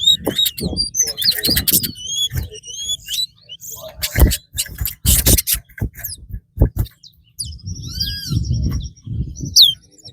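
Caged 'fire red' songbirds singing in a song-count race, each bird's short burst of chirps and gliding whistles counted as one song. Sharp clicks and a low crowd murmur sound underneath.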